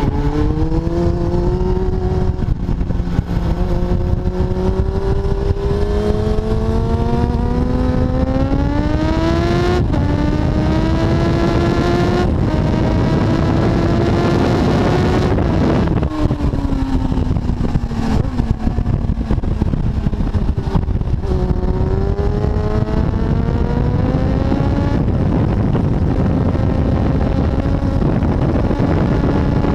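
Kawasaki ZX-7R's 750 cc inline-four engine run hard on track. The pitch climbs in long pulls, each broken by an upshift, falls as the bike slows about halfway through, then climbs again. Heavy wind rush on the bike-mounted microphone runs under the engine throughout.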